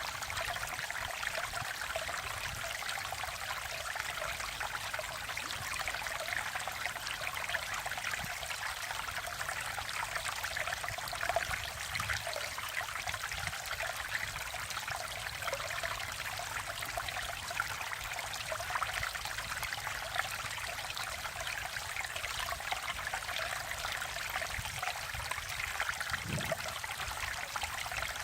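Mountain valley stream flowing, a steady even sound of running water with no breaks or other events.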